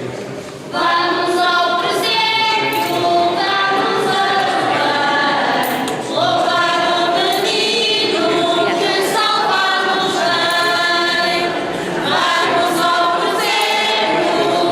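Church choir singing a hymn in long held phrases, with a brief breath between phrases about six and twelve seconds in.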